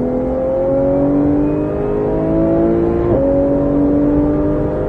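Porsche 991 GT3's flat-six engine pulling hard under acceleration, its pitch rising steadily. About three seconds in, a quick upshift drops the revs, and the engine climbs again. Heard from inside the car.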